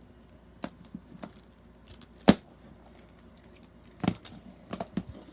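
Scattered light clicks and knocks of toys being handled, with one sharper knock about two seconds in and a few more near the end.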